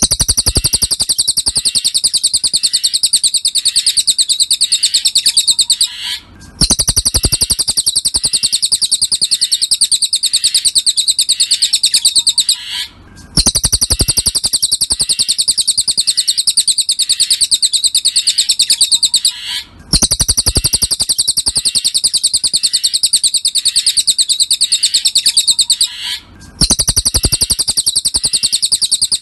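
Cililin bird song: a very fast, high-pitched trill of rapidly repeated notes, in long bouts of about six seconds separated by brief pauses.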